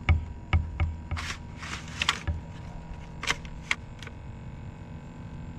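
Irregular knocks, clicks and short rustles of a landed redfish being handled on a kayak while it is measured, with a few dull thuds in the first couple of seconds.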